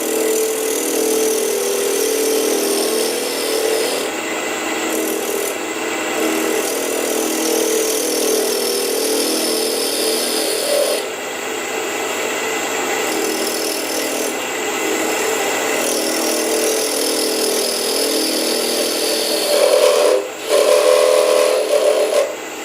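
Wood lathe spinning an off-centre piece fast with a steady hum, as a bowl gouge takes light scraping cuts that come and go. It gets louder near the end, with a little vibration in the work.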